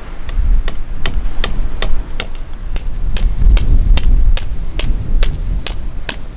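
Sharp knocks repeating evenly, about two to three a second, over a low rumble of wind on the microphone.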